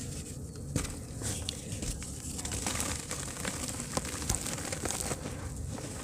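Chunks of soft dirt crumbling apart in water, with irregular small crackles scattered over a low rumbling hiss.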